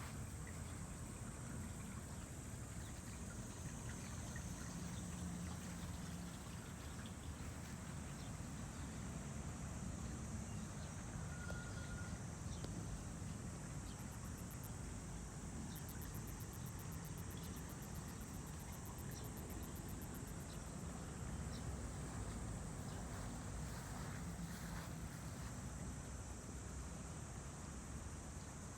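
Outdoor ambience: a steady high-pitched whine or drone over a low background rumble, with a rapid run of faint ticks in the middle.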